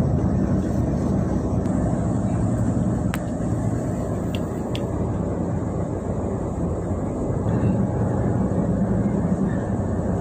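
Pingxi Line diesel railcar running along the track, heard from inside the car: a steady rumble of engine and wheels on rail. A few brief high clicks or squeaks come about three to five seconds in.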